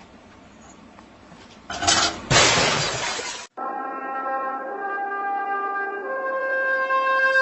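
A sudden loud crash, two hits close together, lasting under two seconds and cut off abruptly. Then music with long held notes.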